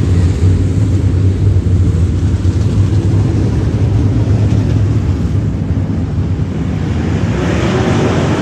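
Dirt-track modified race car engine running hard at speed, a loud steady low drone. A rushing hiss builds in over it near the end.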